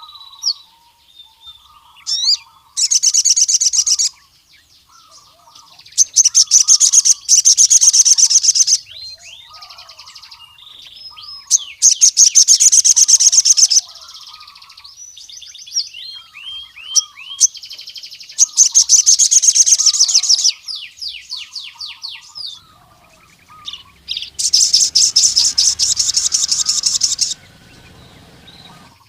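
Male ruby-cheeked sunbird (sogon) singing in loud, rapid, high trills, five bouts of one to three seconds each, with softer high chirps between them. A quieter, lower twittering runs underneath the whole time. This is the full 'ngkleper' song of a male in form, calling out to a rival.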